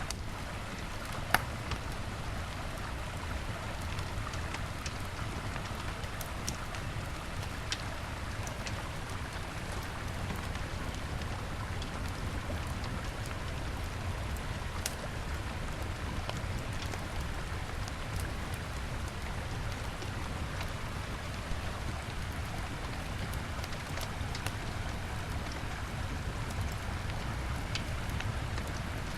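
Wood fire crackling with scattered pops, one sharper pop about a second in, over the steady rush of a river.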